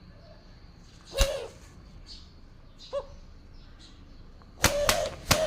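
Nesting spotted dove, fiercely guarding its nest, striking out with sharp wing slaps, each with a short low hoot. One near the start, a lone hoot midway, then several quick slaps near the end.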